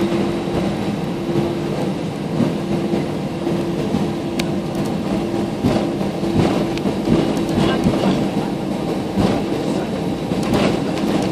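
Airbus A320 heard from inside the cabin while taxiing: the steady hum and rumble of its jet engines at taxi power, with a constant low tone, and irregular knocks and rattles as the aircraft rolls over the taxiway.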